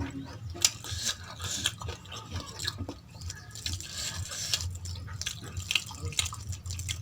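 Close-miked chewing and wet mouth smacks of someone eating mutton tahari rice with gravy: an irregular run of soft clicks and squelches.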